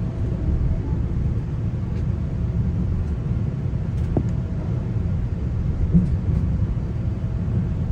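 Steady low rumble inside a GO Transit passenger coach, with a faint steady hum over it and a single light knock about six seconds in.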